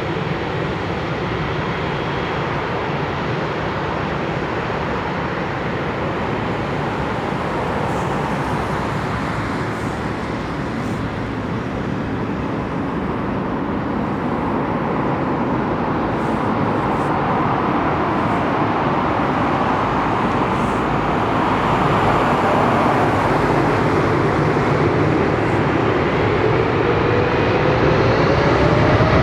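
Jet airliner engines on takeoff at Frankfurt's Startbahn West: a steady rumble that slowly grows louder, with a rising whine in the last few seconds.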